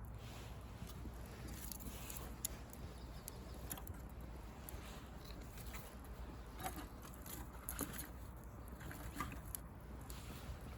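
Wood fire of dry branches crackling, with irregular sharp pops and snaps over a steady low rumble.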